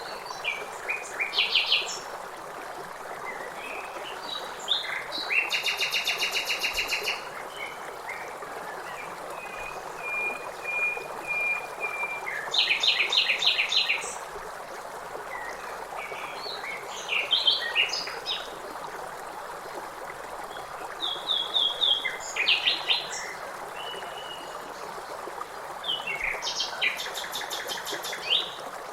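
Songbirds singing in repeated bursts of rapid trilled notes every few seconds, over the steady rush of river water.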